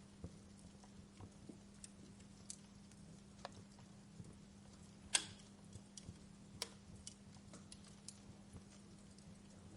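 Log fire crackling: scattered small snaps and ticks over a faint steady hiss and low hum, with one louder pop about five seconds in.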